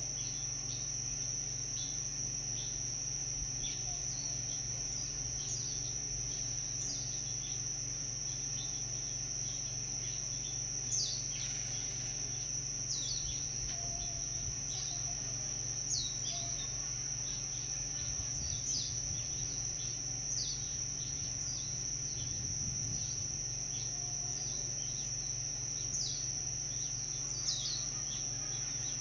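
A steady, unbroken high-pitched insect trill, with short falling chirps every second or two and a faint low hum underneath.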